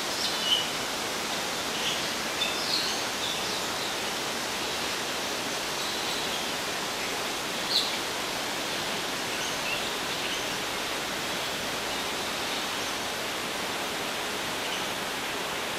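A steady rushing hiss, with brief high-pitched chirps of small birds scattered through it, the most distinct about half a second in and near eight seconds.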